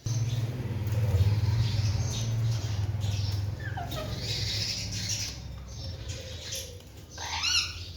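Alexandrine parrot scratching and shuffling, with a short falling chirp partway through and a harsh squawk near the end, over a steady low hum.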